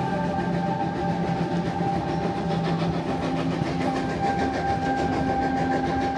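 Steam excursion train rolling along the track: a steady rumble of wheels on rail with a faint clickety-clack and a thin, steady high-pitched ring over it.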